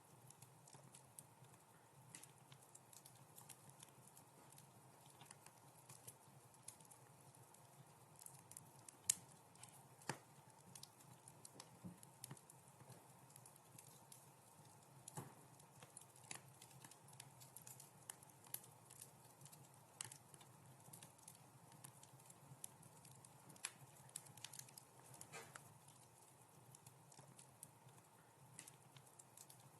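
Wood fire in a fireplace crackling softly: irregular small pops and snaps over a faint steady hiss, with one sharper pop about nine seconds in.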